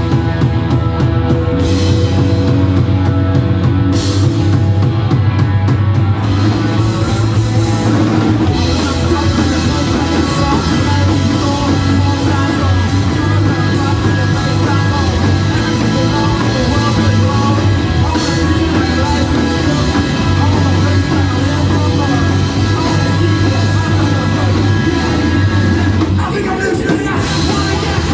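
Rock band playing live, loud: drum kit with cymbals over a heavy, steady bass line.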